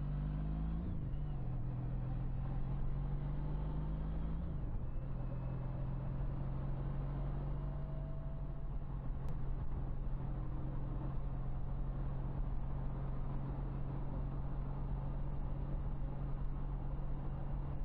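Motorcycle engine running at road speed under rushing air. The engine note dips and comes back up twice in the first few seconds, as with gear changes, then holds a steady, even pitch.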